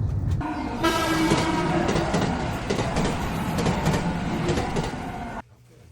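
Train noise: a low rumble, then a louder stretch with a steady pitched tone over rattling, which cuts off abruptly near the end.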